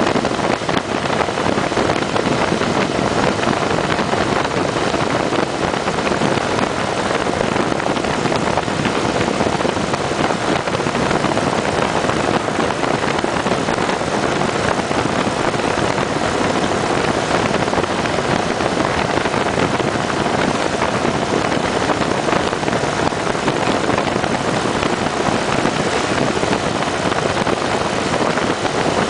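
Steady rush of wind over the microphone from a motorcycle at road speed, mixed with the steady running of a Kawasaki Vulcan 900 V-twin engine.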